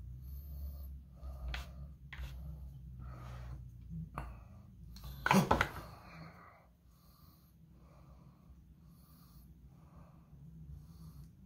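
Close-miked chewing of sashimi with breathing through the nose, going in a steady rhythm of about one and a half chews a second. A brief sharp clack, the loudest sound, comes about five and a half seconds in.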